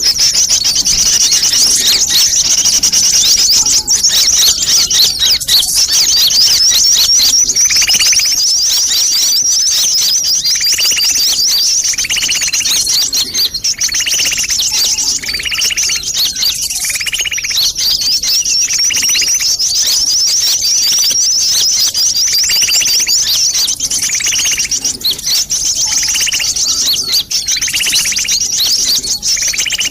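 Bird-lure recording of sunbird calls: dense, rapid high-pitched twittering without a break, joined about a quarter of the way in by a lower call repeated roughly once a second.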